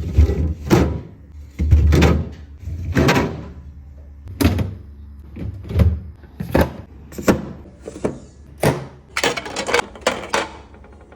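A run of knocks and short sliding scrapes, about one a second, as items, shelves or drawers are handled in a refrigerator, over a low steady hum.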